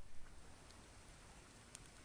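Faint steady hiss of quiet night-time outdoor ambience. A louder rustling noise fades out in the first half second, and there is one faint tick near the end.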